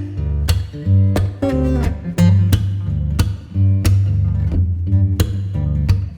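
Guitar music: plucked guitar notes picked in a steady rhythm over a sustained bass line.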